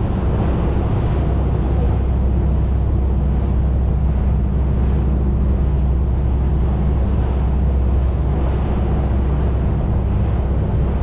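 Boat engine running steadily under way, with wind buffeting the microphone and water rushing past the hull.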